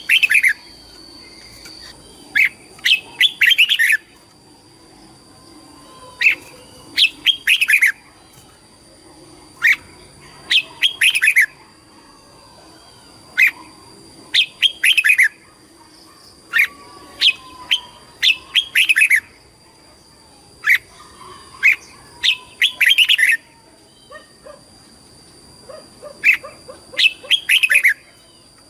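Red-whiskered bulbul singing: short bright phrases of a few quick notes, repeated about every three to four seconds.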